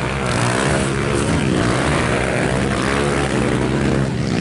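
Racing motorcycle engines revving, several at once, their pitch rising and falling as they run on the circuit.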